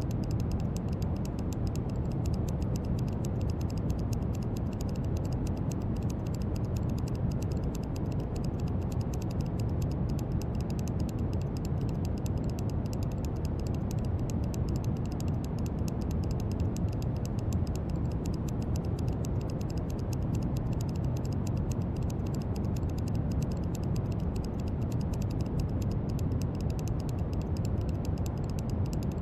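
Steady brown noise: an even, deep rumble of noise, strongest in the low end and thinning toward the highs, with a fine continuous crackle of tiny clicks on top.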